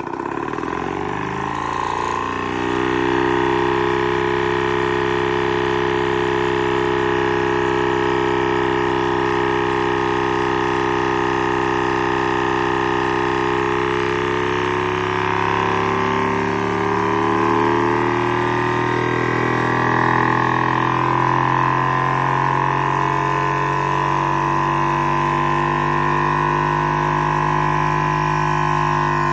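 High-speed Stirling engine with a thermoacoustic displacement system running, a steady droning hum with many overtones. It rises in pitch as it spins up over the first couple of seconds, and its pitch dips and recovers around the middle.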